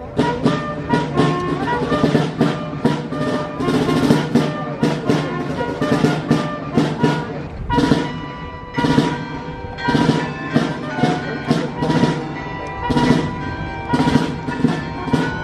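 Military marching band playing, with drums striking about twice a second under held brass notes.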